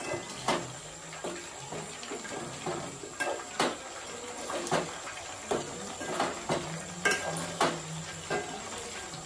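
Chicken pakodi frying in hot oil in a metal pot with a steady sizzle, while a metal spoon stirs the pieces, clinking and scraping against the pot at irregular moments.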